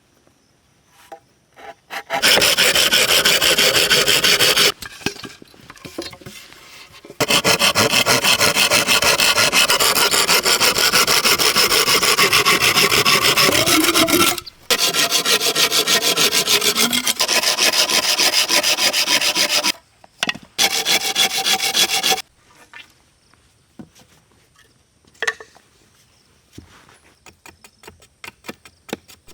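Wood being worked with a hand tool: several long runs of rapid scraping strokes, each lasting a few seconds, with short pauses between them.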